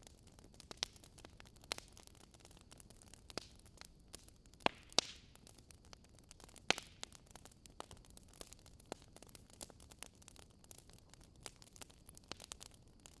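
Wood bonfire crackling: irregular sharp snaps and pops over a soft hiss, with a few louder pops about the middle.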